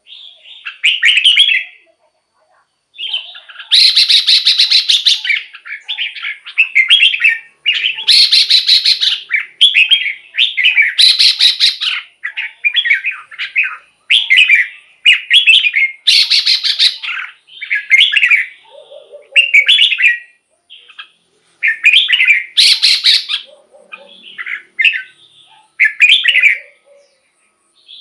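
Red-whiskered bulbul singing: a run of short, liquid warbled phrases with brief pauses between them, broken several times by harsher, rasping calls about a second long.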